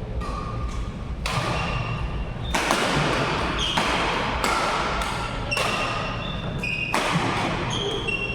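Badminton rally: rackets striking the shuttlecock in quick succession, about one hit every half second to second, with short high squeaks of court shoes on the floor and the ring of a large hall.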